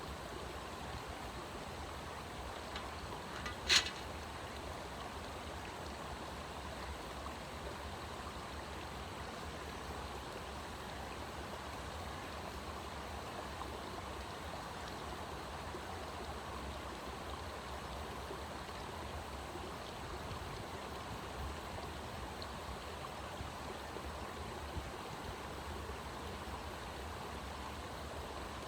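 Steady rush of flowing water, with one sharp click about four seconds in.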